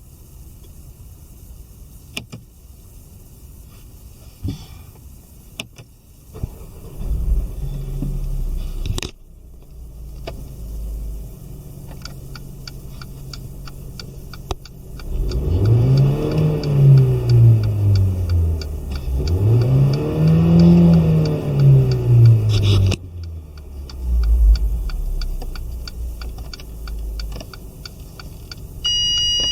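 Mercedes-Benz A180 (W176) M270 turbocharged four-cylinder petrol engine starting about seven seconds in and settling to idle. It is then revved twice, each rev rising and falling smoothly, and drops back to idle with a short blip of the throttle near the end.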